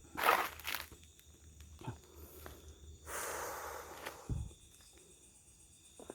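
Footsteps and rustling through dry leaves and undergrowth: two short crunches near the start, a longer rustle about three seconds in ending in a dull thump, over faint steady insect chirring.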